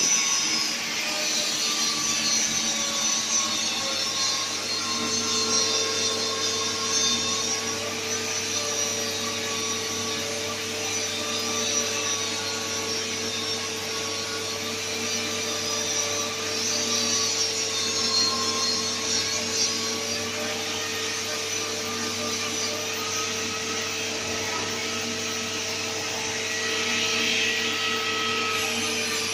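Steady machinery running, with a whine that slowly wavers in pitch over a constant hum and hiss.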